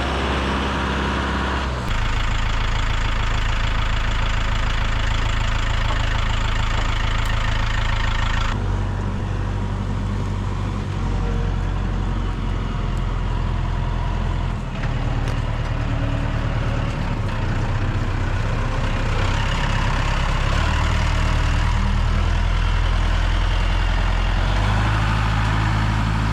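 Tractor engine running steadily, its pitch and level changing abruptly several times as the forks are fitted to the tractor.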